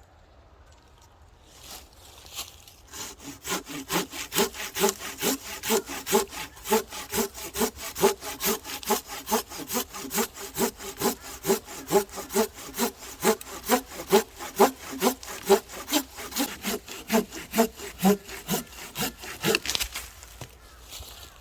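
Firewood being sawn by hand: a steady back-and-forth rhythm of about two to three saw strokes a second, starting a few seconds in and stopping near the end.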